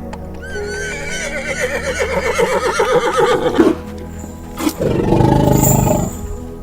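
A horse whinnying: one long quavering neigh that falls in pitch over about three seconds. It is followed by a loud, low, rough animal call lasting over a second, with background music throughout.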